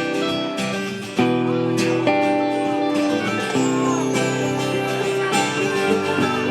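Live band playing the instrumental intro of a pop-rock song, with a strummed guitar to the fore.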